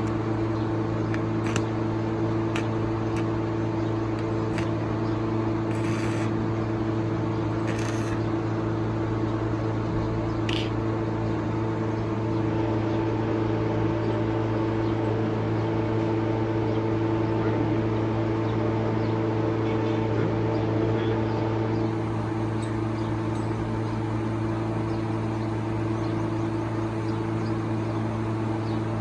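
Toyota Premio's 1ZZ four-cylinder engine idling steadily, with a few short clicks in the first ten seconds or so.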